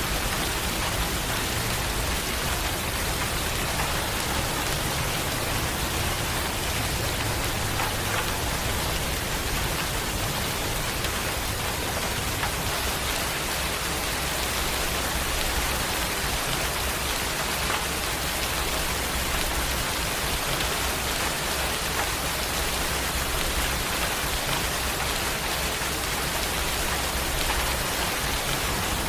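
Steady rain falling and pattering on surfaces, an even hiss of drops with a low rumble beneath.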